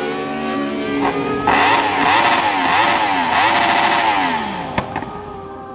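Motorcycle engine revved in a run of quick throttle blips, its pitch rising and falling over and over, then dropping back, with two sharp cracks near the end.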